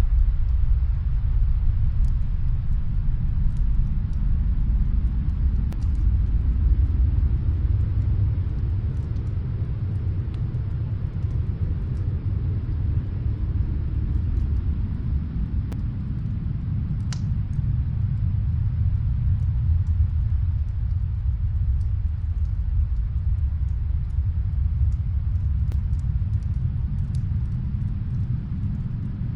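Snowstorm wind as a steady low rumble that slowly swells and eases, with faint scattered crackles from a fireplace.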